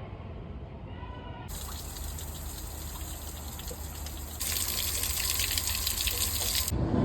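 Water gushing, starting about a second and a half in, getting louder partway through and cutting off suddenly near the end.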